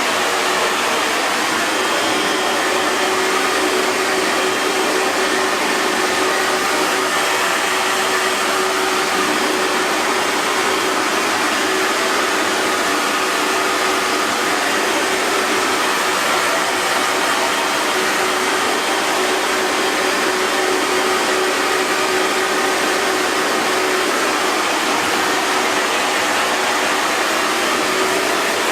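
Hair dryer running steadily: an even rush of blown air over a faint constant motor hum, with no change in speed.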